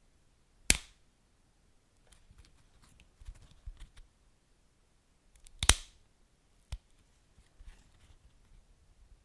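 Wood fire crackling in a fireplace: scattered faint crackles, with two loud sharp pops, one just under a second in and another about six seconds in.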